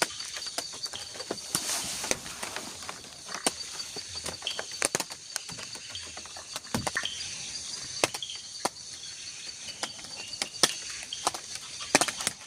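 Night forest ambience: a steady high chorus of crickets and other insects, broken by irregular sharp taps that come every fraction of a second to a second or so.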